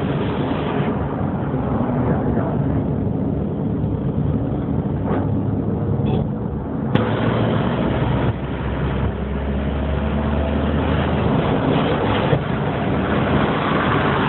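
Steady traffic noise heard from a moving vehicle: low engine hum and road noise, with one sharp click about halfway through.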